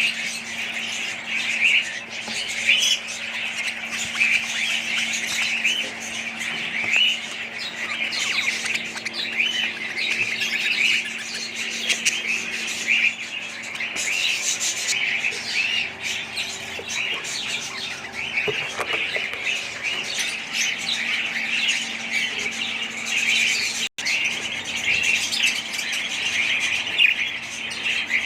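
A group of budgerigars chattering, with dense overlapping chirps and squawks that carry on without a break. A faint steady hum runs underneath.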